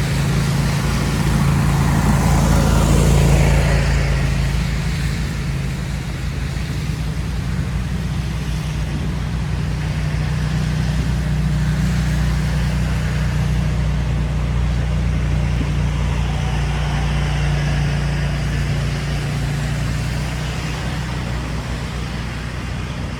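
City street traffic: a steady low engine hum from vehicles, with a car passing loudest about three seconds in and another gentler pass later.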